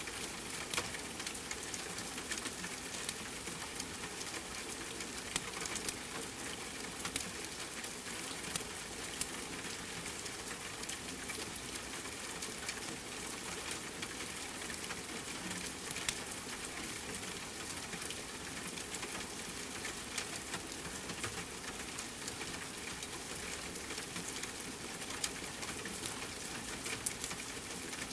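Steady rain hiss with scattered sharp pops and crackles from a wood fire.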